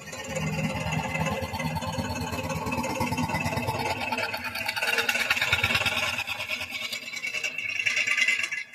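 Electric jigsaw running as it cuts wood, its blade stroking rapidly in a steady buzz; it stops abruptly near the end.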